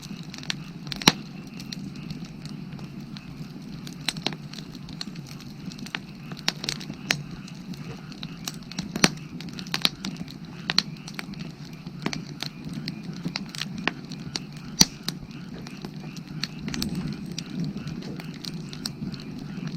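Firewood burning, crackling with irregular sharp pops, a few of them louder, over a steady low background.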